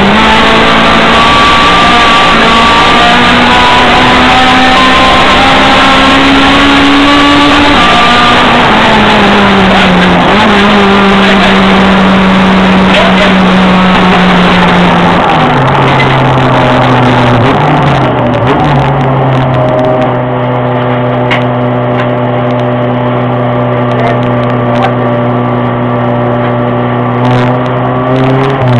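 Race car engine heard from inside the cabin, pulling with its pitch rising, then falling about eight seconds in. After another drop around fifteen seconds in it runs slower and steadier and a little quieter, the car easing off after its run.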